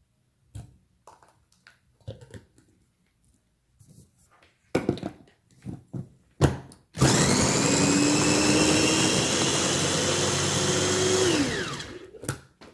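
Small food processor chopping vegetables: a few knocks and clicks of the bowl and lid being handled, then the motor runs steadily for about four and a half seconds and winds down with a falling pitch.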